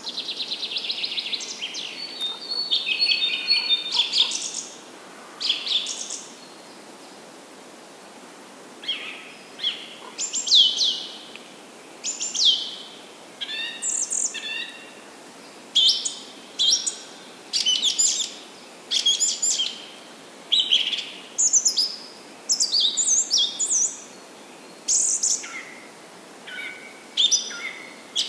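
Birds singing and calling: a fast trill at the start, then a string of short, high whistled phrases, several sliding down in pitch, over a faint steady hiss.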